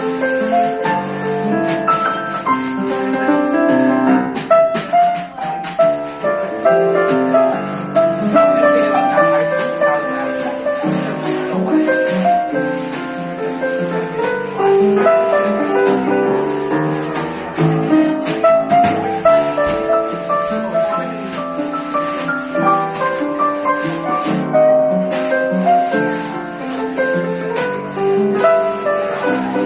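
Live jazz band playing: piano chords and melody over light percussion that keeps a steady shimmering pulse.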